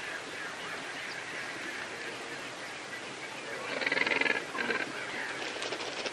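A bird's buzzy honking call about four seconds in, lasting under a second, over steady background hiss.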